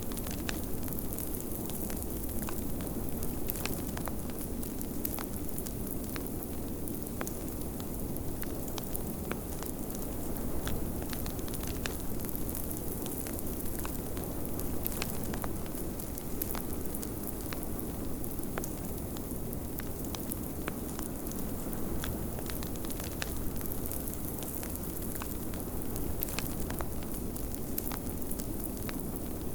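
Fireplace crackling, with frequent small irregular pops, over a steady low rushing of blizzard wind.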